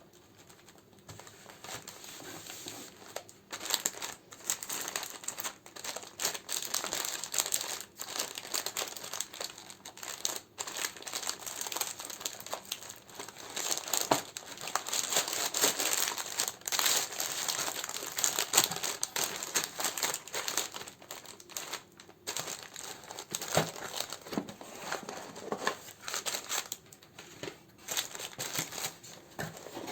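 Plastic and paper packaging crinkling and rustling as it is handled, in irregular bursts with a few short pauses.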